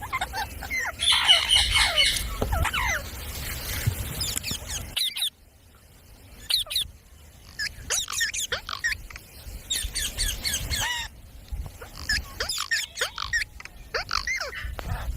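Pet parrot giving quick high chirps and squawks, loudest and harshest in the first few seconds. The background sound drops out abruptly about five seconds in and again near eleven seconds.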